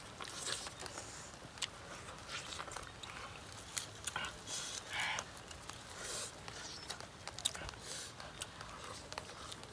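Two people eating cooked chicken thighs by hand: biting, chewing and lip smacking, with many short wet clicks scattered irregularly.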